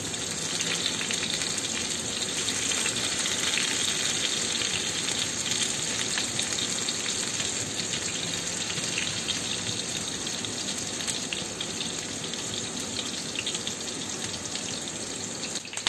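Tofu frying in hot oil in a pan: a steady sizzle with fine crackling.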